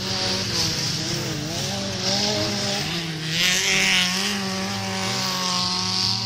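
Engines of several old cars running on a dirt race track, revving up and down at once as they pass. A louder rush of noise about three and a half seconds in as one car comes close.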